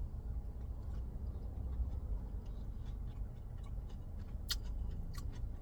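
A steady low rumble, with a few short sharp clicks about four and a half and five seconds in.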